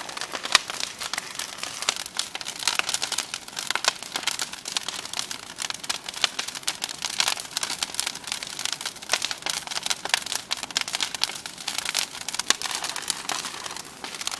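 Bonfire of wood and pallets burning, with a dense, irregular crackling and popping from the burning wood; one sharper pop about half a second in.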